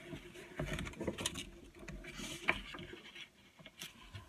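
Paper pages of a coloring book being handled and turned, with soft rustles, light taps and a brief swish of a page a couple of seconds in.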